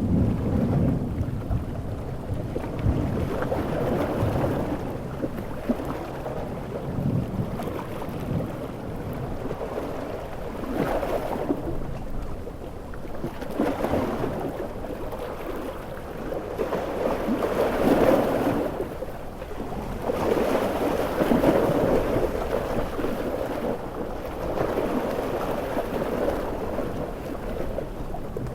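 Stormy coast soundscape: large sea waves surge and break every few seconds over steady heavy rain, with low rolling thunder in the first part.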